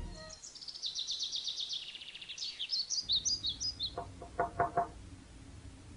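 Birds chirping: a quick run of high, falling chirps, then more varied high notes, and a few shorter, lower chirps near the end.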